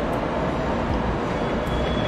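JR Kyushu 885 series electric train rolling over the switches of a station throat, with a steady rumble of wheels on rail. A faint high wheel squeal starts about a second and a half in.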